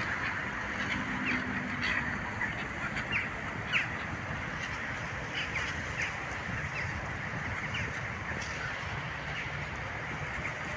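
A flock of birds calling around a pond: many short, scattered calls over a steady background rush.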